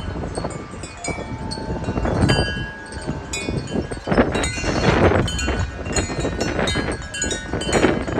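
Wind chimes ringing rapidly and irregularly, thrashed by strong gusts, over heavy wind rumble on the microphone that swells around two seconds in and again around four to five seconds in.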